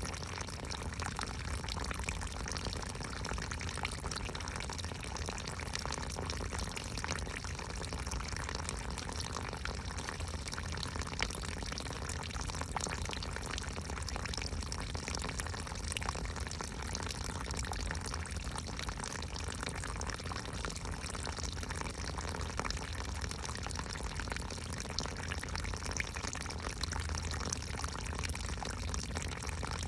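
Steady running and splashing water, with many small drips and droplet ticks. The sound stays the same throughout.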